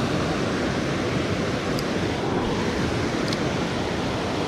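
Steady rush of creek water pouring over shoals and falls, with two faint light clicks partway through.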